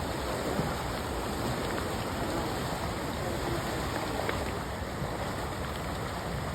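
Steady rushing of river water, an even noise with a few faint ticks.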